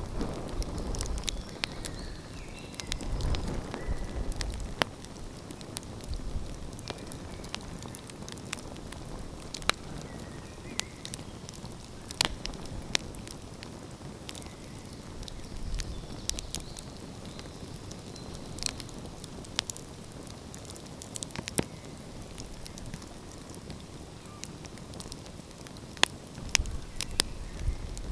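Wood fire burning and crackling, with sharp irregular pops over a steady hiss and a low rumble near the start.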